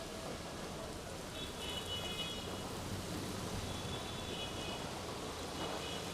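Steady rain noise, with a few brief high-pitched tones coming and going over it, about three times.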